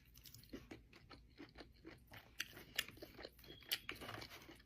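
Close-miked chewing of sushi: soft, irregular mouth clicks and crunches.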